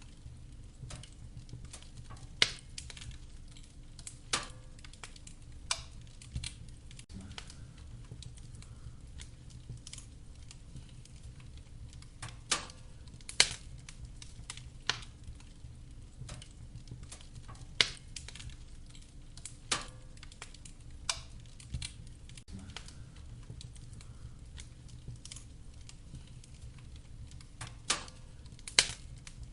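Firewood burning in a fireplace, crackling with irregular sharp pops every second or few seconds over a steady low rumble.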